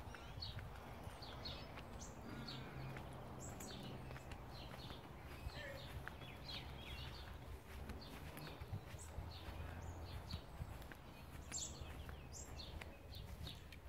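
Small birds chirping in many short, high calls over a low, steady background rumble.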